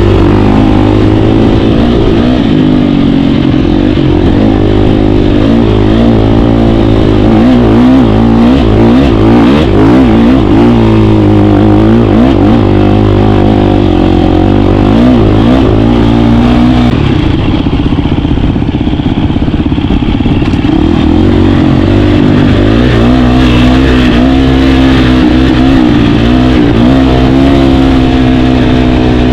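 KTM 350 dirt bike's single-cylinder four-stroke engine running under way, its pitch repeatedly rising and falling as the throttle opens and closes. For a few seconds past the middle it drops to a lower, steadier note before picking up again.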